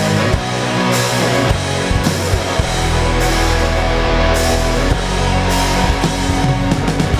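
Rock band playing an instrumental passage: electric guitar and bass over a drum kit, with cymbal crashes recurring about once a second.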